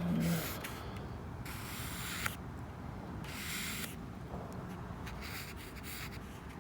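Pen drawing on journal paper: a series of separate scratchy strokes, each lasting up to about a second, as a flower sketch is finished.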